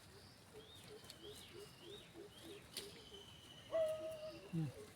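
Birds calling: a run of short rising chirps, then a long high trill, over soft repeated low notes. A louder, short held call comes about four seconds in and falls away at its end.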